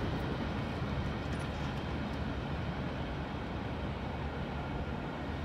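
Steady low rumble of a freight train rolling away down the line, easing slightly as it recedes.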